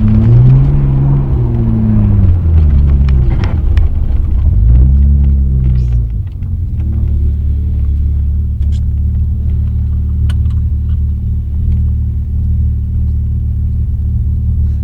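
BMW E30 320i's straight-six engine heard from inside the car, its revs swinging up and down several times under throttle. About six seconds in the revs settle and it runs steadily, a little quieter, with a few sharp clicks.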